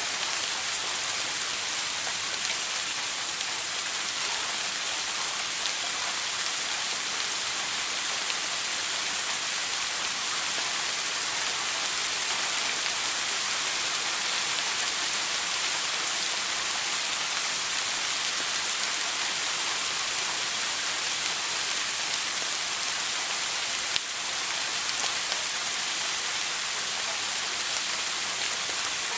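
Shower water spraying steadily, an even hiss of falling water. There is one brief click near the end.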